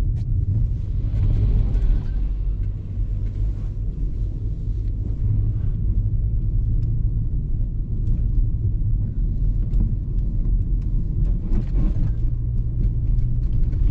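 Steady low rumble of a car driving on a snowy road, with engine and tyre drone heard from inside the cabin.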